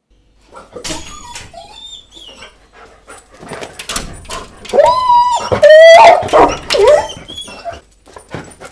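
A dog whining and whimpering: short, high cries that slide up and down in pitch, the loudest and longest about five to six seconds in, with scattered clicks between them.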